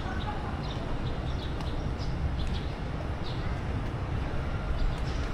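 Outdoor ambience: a steady low rumble with short high chirps scattered through it.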